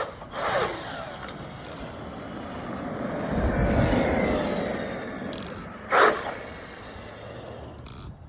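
Traxxas XRT RC truck with a 12S brushless motor (Hobbywing Max5 G2, 1100 kV) running on the road: a motor whine that rises and falls over tyre noise, swelling loudest about three to four seconds in as it passes close. A short sharp sound stands out about six seconds in.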